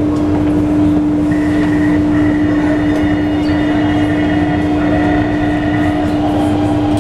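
A train running, with a steady rumble and a constant hum. From about a second in until near the end, a thin high whine comes and goes over it.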